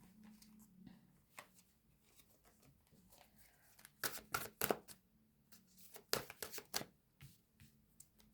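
A tarot deck being shuffled and handled: sharp card snaps and slaps in two clusters, about halfway through and again shortly after.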